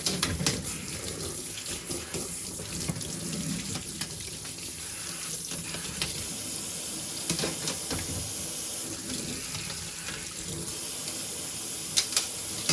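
Tap water running steadily into a sink, with a few light knocks and clicks.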